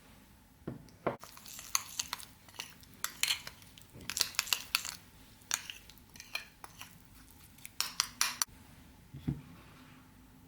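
Kitchen utensils and dishes clinking and tapping in an irregular string of sharp light clicks, with a dull knock about a second in and another near the end.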